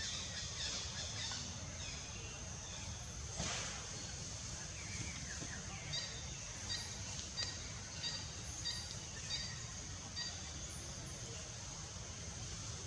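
A bird chirping: short high calls repeated about every half second, six or seven times, over a steady outdoor hiss, with a single knock or rustle before them.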